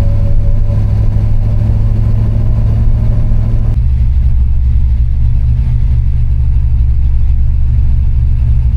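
Steady low rumble of a motor vehicle running, with a slight shift in its tone about four seconds in.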